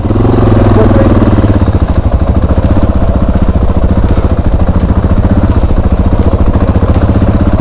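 Suzuki DR650 single-cylinder motorcycle engine idling steadily, with an even, rapid pulse.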